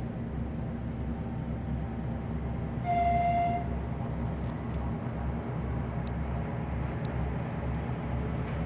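Diesel locomotive engine running with a steady low rumble. About three seconds in, the horn gives one short blast of under a second.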